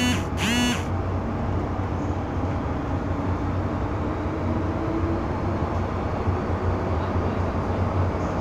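Interior running noise of an MTR M-Train carriage: a steady rumble and low hum from the train's wheels and traction equipment, with a faint motor whine in the middle. Right at the start there are two brief pitched sounds.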